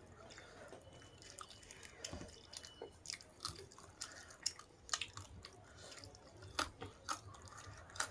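A person chewing food, with irregular wet mouth clicks and smacks.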